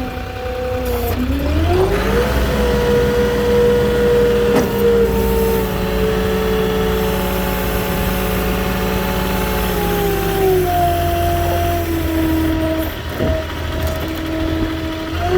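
Moffett truck-mounted forklift engine revving up about a second in, holding at high speed while the load is handled, then dropping back to a lower speed about ten seconds in.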